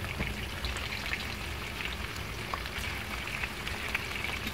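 Raw chicken pieces and minced garlic sizzling in hot oil in a frying pan: a steady crackle with scattered small pops.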